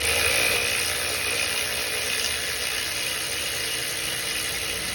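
A steady, loud spray hiss of pressurised air or cleaner that starts abruptly and cuts off after about five seconds.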